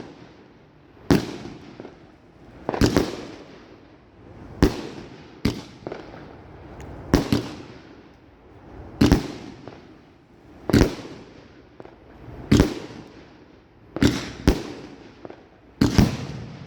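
2-inch 25-shot strobe firework cake firing shot after shot: about eleven sharp bangs, roughly one every one and a half to two seconds, each trailing off in a short fading crackle.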